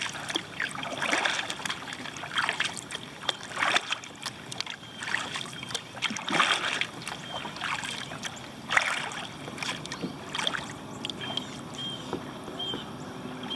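Kayak paddle blades dipping and pulling through calm lake water, alternating strokes about a second apart, each a short swish and splash.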